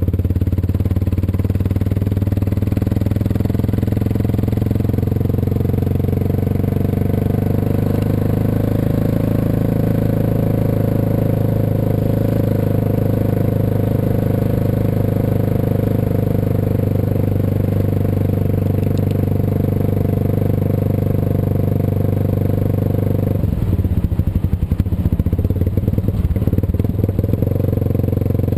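Suzuki DR650 single-cylinder motorcycle engine running steadily while riding. About 23 seconds in, the steady note gives way to a rougher, pulsing stretch for a few seconds before it settles again.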